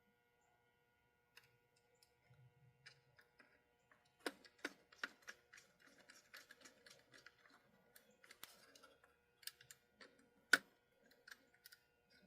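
Faint, irregular clicks and taps of small parts and tools being handled on a workbench during model locomotive repair. They are sparse at first and come thick from about four seconds in, with one sharper click near the end.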